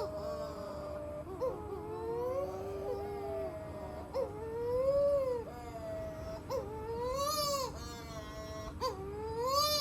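Young seabirds, known locally as the Matamanoa bird, wailing in the dark. Several overlapping long calls rise and fall in pitch like a crying baby, broken by short, sharp yelps about every two seconds.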